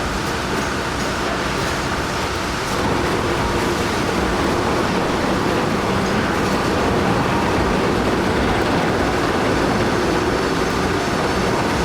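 Heavy vehicle or machinery running steadily, a dense, continuous noise that grows slightly louder about three seconds in.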